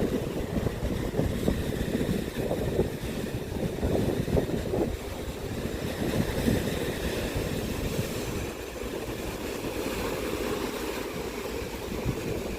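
Strong wind buffeting the microphone over the wash of wind-driven waves, a gusty low rumble that eases slightly and evens out about two-thirds of the way through.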